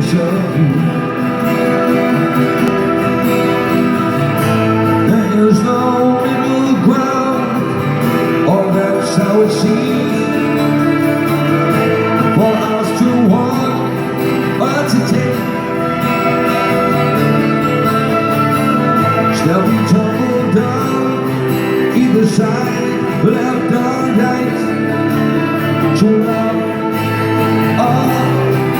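Rock band playing live, with a man singing over the instruments.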